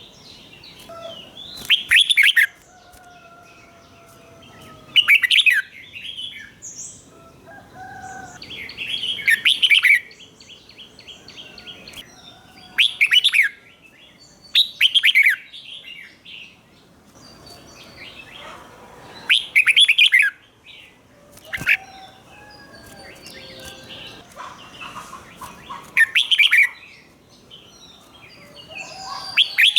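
Red-whiskered bulbul singing loud, short warbled phrases every few seconds, with quieter chirps and whistles between them.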